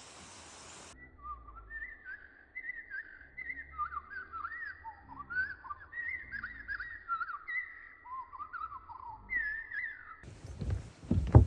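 A run of quick, warbling whistled notes that rise and fall in short swoops, sometimes two at once. It starts about a second in and stops shortly before the end.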